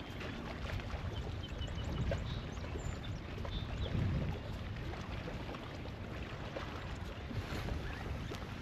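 Wind rumbling on the microphone and water lapping against a kayak hull on open lake water, with a brief low swell about four seconds in.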